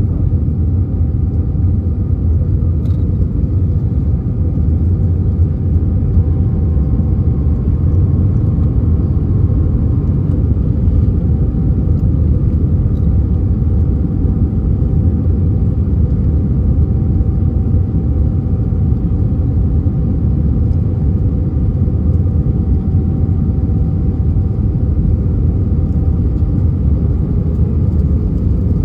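Steady low rumble inside the cabin of an Airbus A319, with a faint steady whine above it.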